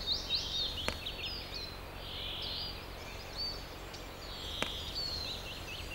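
Forest birds singing: quick high chirps and short twittering phrases overlapping throughout, over a faint steady low hum, with two soft clicks about a second in and near the end.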